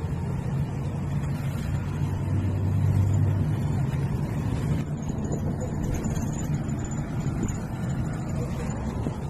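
Diesel bus engine running with a steady low rumble that swells briefly about two to three seconds in. A faint thin high whine comes in during the second half.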